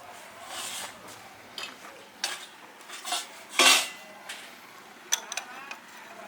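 Metal objects clinking and scraping, with one louder scrape about three and a half seconds in.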